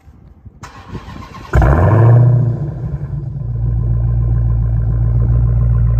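Dodge Challenger SRT Hellcat's supercharged 6.2-litre HEMI V8 starting up. It fires suddenly about a second and a half in with a brief flare of revs, then settles into a steady idle.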